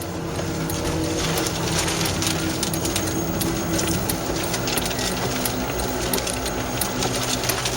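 Steady car noise heard from inside the cabin: an engine hum under a wash of wind and road noise, with many scattered sharp clicks.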